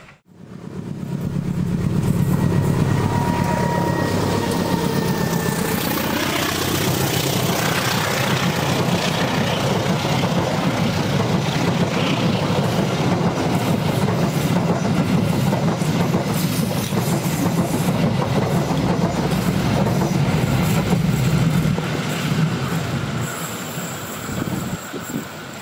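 Passenger train of stainless-steel coaches passing close by: a loud, steady rumble of wheels on the rails that fades in the last few seconds as the train draws away.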